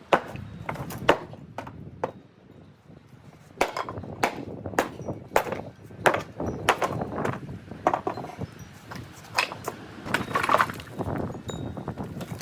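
Repeated knocks and thuds of demolition work on a wooden dog house: two sharp knocks, a short pause, then a steady run of blows about two a second.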